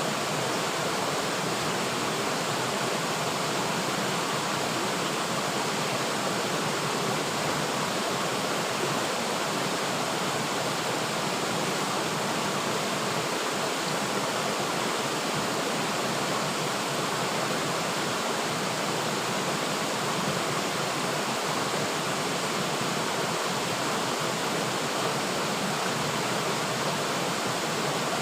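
A river flowing steadily, an even rushing of water with no change in level.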